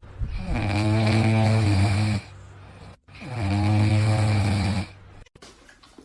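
Snoring: two long, loud snores of about two seconds each, with a short break between them.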